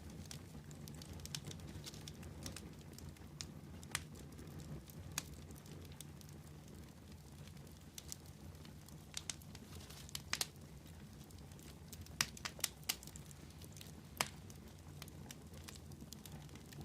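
Fire crackling: irregular sharp pops and snaps, a cluster of louder ones about two-thirds of the way in, over a steady low rumble of the burning fire.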